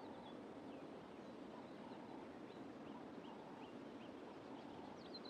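Faint background ambience with scattered short, high bird chirps, several quick notes, with a slightly louder pair near the end.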